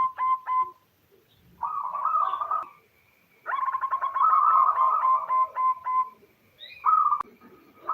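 Female zebra dove cooing: phrases of rapid staccato coos, with a short phrase about two seconds in, a longer one from about three and a half to six seconds, and a brief burst near the end.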